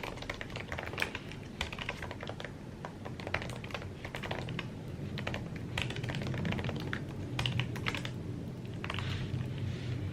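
Typing on an Apple computer keyboard: quick, irregular runs of key clicks with short pauses between, over a steady low hum.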